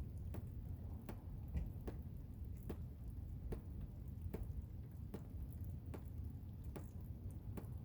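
Blizzard ambience: a steady low rumble of wind with sharp ticks that come irregularly, roughly once a second.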